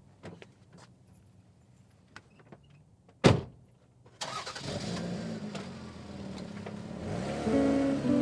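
A few faint clicks, then a car door shuts with a single sharp thud. About a second later the car's engine starts and runs, its pitch rising and falling; guitar music comes in near the end.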